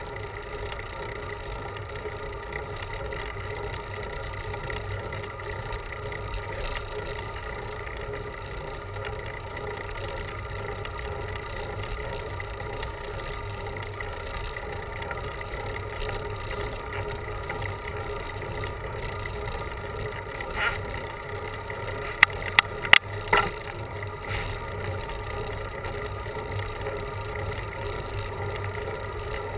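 Steady ride noise from a bicycle on a road, with a constant hum, and a quick run of sharp clicks about two-thirds of the way through.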